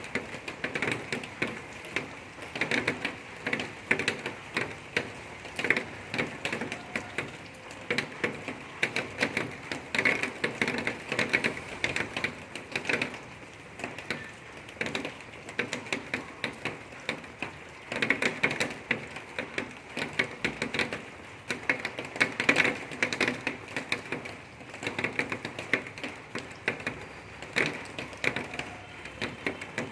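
Rain falling, with a dense, irregular patter of drops striking a nearby surface.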